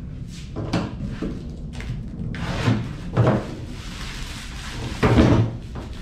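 Irregular knocks, rustling and scraping of packaging and machine parts being handled and set down, with the loudest thuds about three seconds in and just after five seconds.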